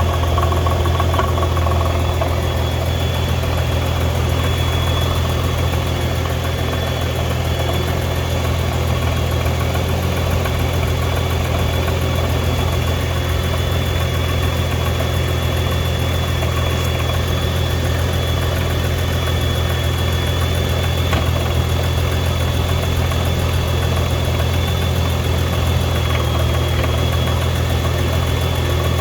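2015 Nissan GT-R R35's twin-turbo V6 idling steadily, with a single short click about two-thirds of the way in. This idle carries a rattle and occasional clunk that the owner can feel in the seat and cannot place as gearbox, clutch or exhaust.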